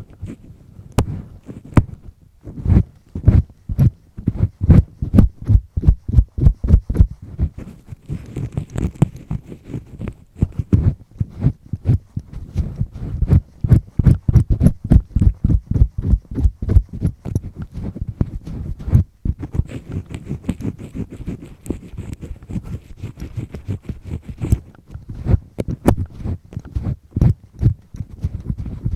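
A double-disc earpick scraping and rubbing inside an ear close to the microphone, worked fairly firmly in quick runs of rough strokes, several a second, with short pauses a couple of times.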